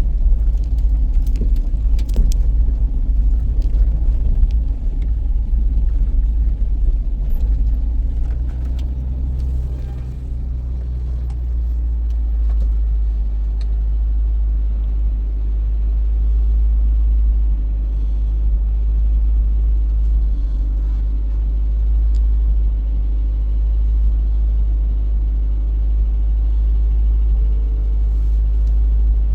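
A motor vehicle driving: a steady low rumble, with a few clicks and rattles in the first few seconds.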